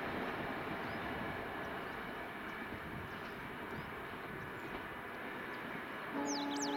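Steady rumble of a passenger train running away into the distance, fading a little. Near the end a train horn sounds for about a second, with a few short bird chirps over it.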